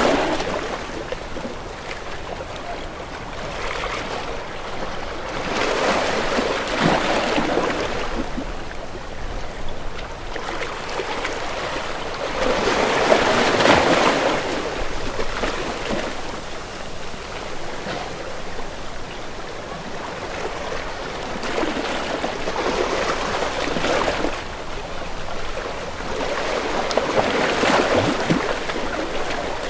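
Sea waves washing and sloshing, the rush of water swelling and fading in slow surges every several seconds.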